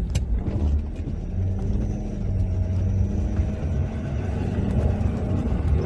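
Ford F-250's 6.7-litre Powerstroke V8 turbo-diesel running steadily under way while plowing, a low, even drone.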